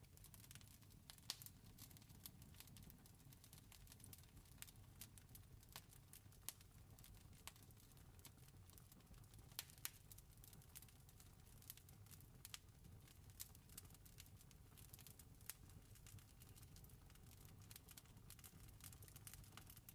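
Campfire crackling: quiet, irregular sharp pops and snaps from burning wood over a low steady rumble.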